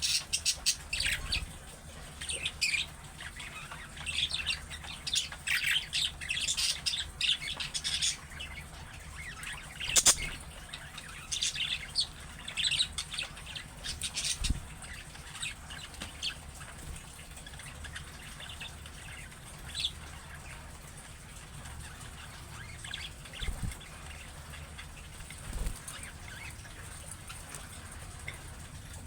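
Budgerigars chirping and chattering in quick runs of short, high calls. The calls are dense for the first half, then thin out to occasional chirps.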